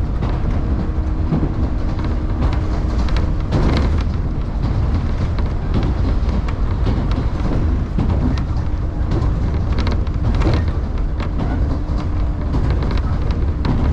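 Electric passenger train running along the line, heard from inside the car: a steady low rumble of wheels on rail, with a few knocks over rail joints and a faint motor hum that comes and goes.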